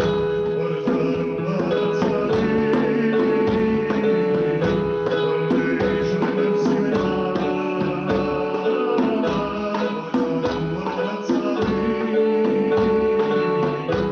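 Keyboard with hand percussion playing a liturgical melody, with sustained chords over a steady beat of drum strokes.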